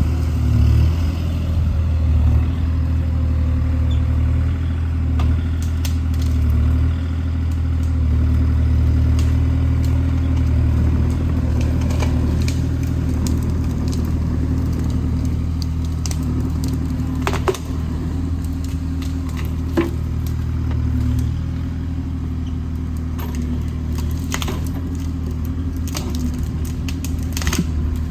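Kubota KX040 mini excavator's diesel engine running steadily. Scattered sharp cracks and clicks sound over it, most of them in the second half.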